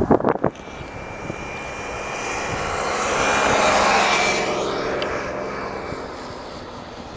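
Jet airliner passing by: its engine noise swells to a peak about four seconds in and then fades, with a high whine that drops in pitch as it goes past. Wind buffets the microphone at the very start.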